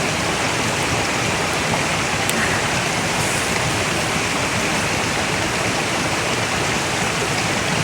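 A mountain stream rushing steadily over rocks close by, an even, unbroken water noise.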